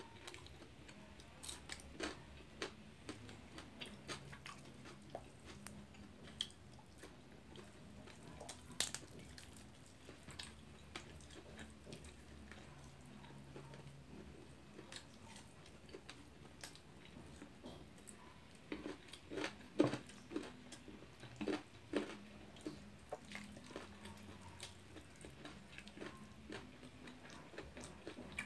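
A person chewing steamed chicken, with scattered small mouth clicks and a cluster of louder clicks about twenty seconds in.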